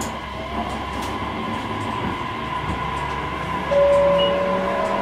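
KiHa 47 diesel railcar running on the rails, a steady rumble with a faint steady tone. About three-quarters of the way in, a louder high steady tone sets in on top of it.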